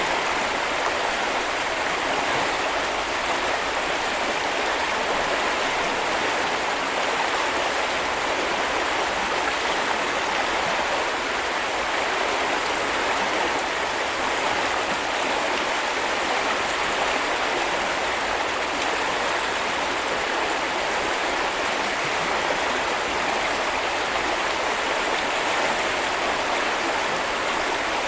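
Stream water flowing steadily: an even, unbroken rush of water.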